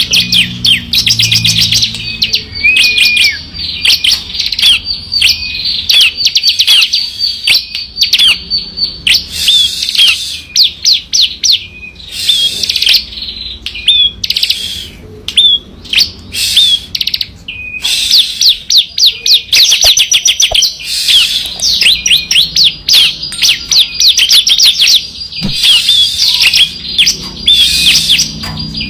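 Ciblek (bar-winged prinia) singing in rapid, rattling trills of short high chirps. About midway the trills break off into a few spaced single notes, then the fast trilling resumes.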